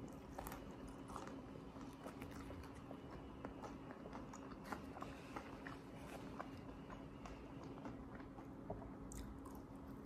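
Faint chewing of fried chicken and fries, with many small mouth clicks and crunches scattered throughout. A faint steady hum runs underneath.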